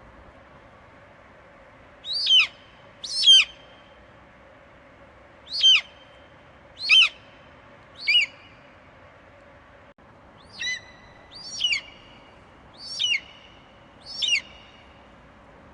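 Eagle screeching: about nine short, high calls, each sliding down in pitch, spaced roughly a second or more apart with a brief pause midway, over a faint steady background hiss.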